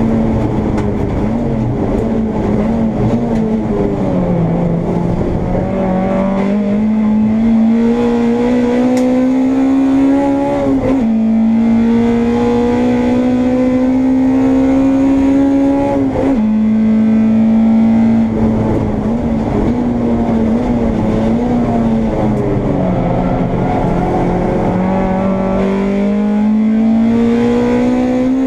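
Honda Integra race car's engine under hard use, heard onboard. The revs climb steadily through the gears, drop sharply at upshifts about eleven and sixteen seconds in, and fall away twice as the car slows before pulling up again.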